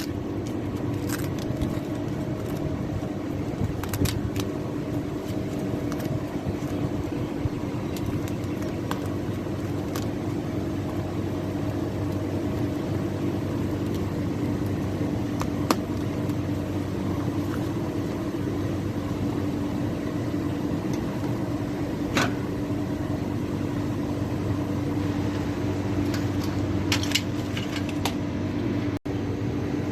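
Steady machine hum at a constant pitch, with a few sharp clicks and taps about 4, 15, 22 and 27 seconds in.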